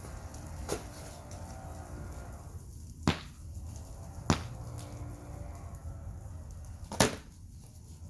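Four sharp wooden cracks: a weaker one, then three loud ones spaced a second or more apart, the sound of firewood being struck. A steady low rumble runs underneath.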